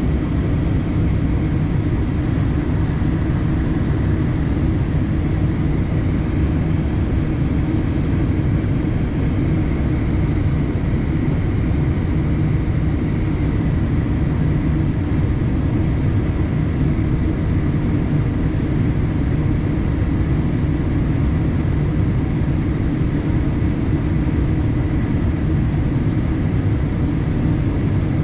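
Steady cabin noise inside a Boeing 787-8 airliner: a constant low rumble of engines and airflow, unchanging throughout, with a faint steady high tone.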